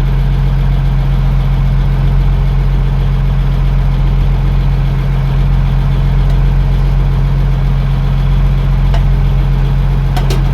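A fishing boat's engine idling, a steady low drone.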